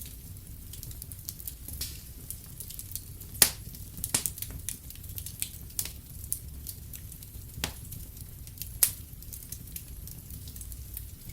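Wood fire crackling in a fireplace: scattered sharp pops and snaps, the loudest about three and a half seconds in, over a steady low rumble.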